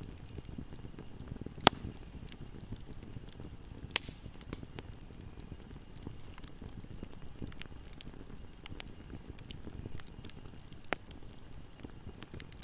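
Wood fire burning: a low steady rumble with scattered crackles and a few sharp louder pops, the loudest about two and four seconds in.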